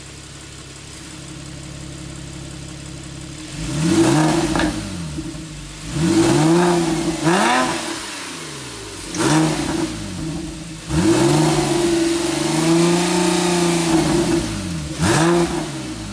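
2012 Porsche 997.2 Carrera GTS 3.8-litre flat-six, warm, running through its sport exhaust with a Sharkwerks center-muffler delete: a steady idle, then from about four seconds in a series of about six throttle blips, one held for a few seconds, each falling back toward idle.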